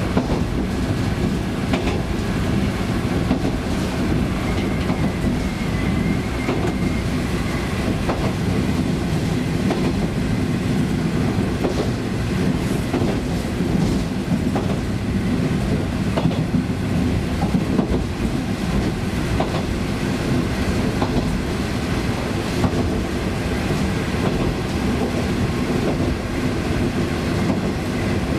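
KiHa 20 diesel railcar running along the line: its DMH17C diesel engine drones steadily while the wheels click over rail joints at irregular intervals.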